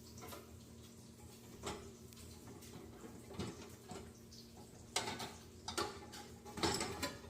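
Silverware and dishes clinking and knocking as they are handled, a string of separate light clinks that grows busier and louder near the end, over a faint steady hum.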